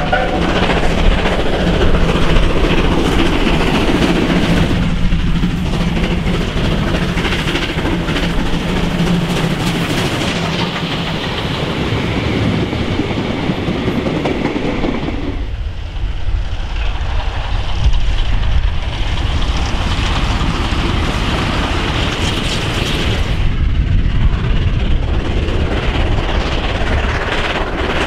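A steam-hauled passenger train rolling past close by, its coach wheels clattering over the rail joints with a steady rumble. The sound dips and changes a few times.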